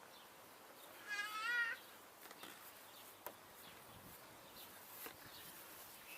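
One animal call with a wavering pitch, lasting under a second, about a second in, followed by a few faint clicks.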